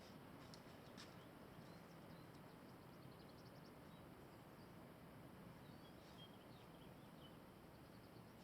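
Near silence with faint high bird chirps and short trills in the background, heard around three seconds in and again around six seconds in.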